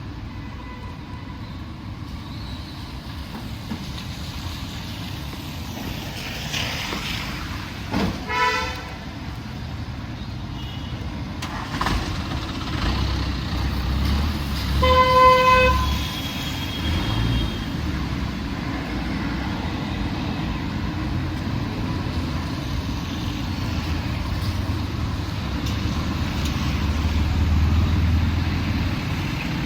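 Busy street traffic with engines running, and vehicle horns honking: a short horn about eight seconds in and a louder, longer horn blast about fifteen seconds in.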